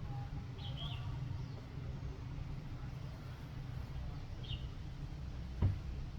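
A bird giving short high chirps, twice, over a steady low rumble, with a single brief knock about five and a half seconds in.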